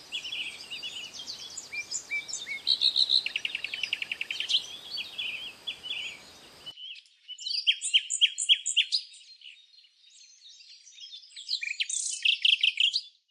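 Songbirds singing, several voices overlapping in rapid trills and short chirps. About halfway through the low background hiss cuts off abruptly, as if a different recording begins, and the chirping carries on, busiest near the end.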